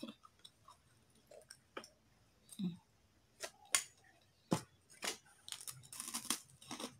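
Close-up eating sounds: chewing, with sharp crisp crunches of krupuk crackers, sparse at first and coming thick and fast in the second half.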